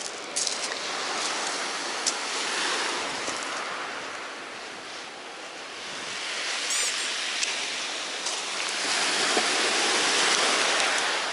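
Sea waves breaking and washing up a pebble beach, the surf swelling and easing twice, with a few small clicks near the start.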